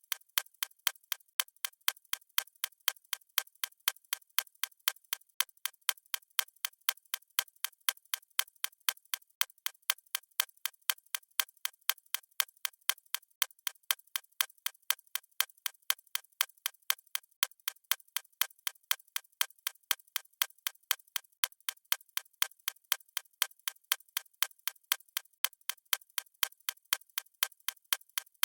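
Clock ticking in a steady, even rhythm of sharp, crisp ticks.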